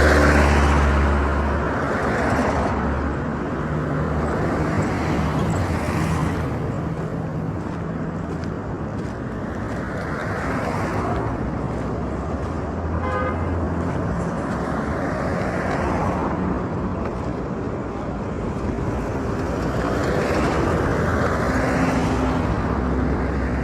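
Road traffic: vehicle engines running with a low steady hum, and cars passing in waves that swell and fade every few seconds.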